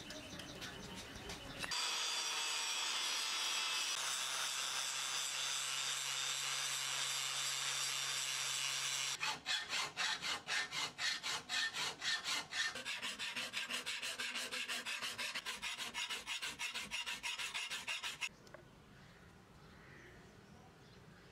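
Hand file scraping along a steel blade clamped to a wooden board: a steady rasping for several seconds, then regular back-and-forth strokes at about three a second that stop suddenly near the end.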